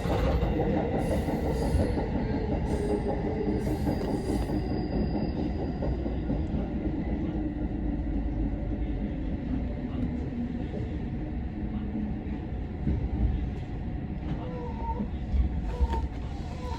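Electric commuter train running on the rails as heard from the front of the train as it slows for a station, with a faint motor whine falling in pitch. A few short wheel or brake squeals come near the end.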